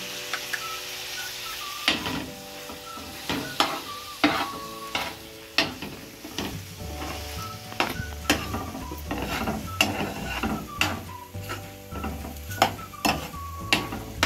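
Mutton liver sizzling as it fries in a pan, with a metal spoon repeatedly scraping and clinking against the pan as it is stirred and yogurt is spooned in.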